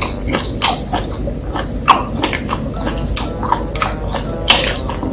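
Close-up wet mouth sounds of a person chewing slowly with the mouth closed, ASMR-style: irregular moist smacks and clicks, about three a second.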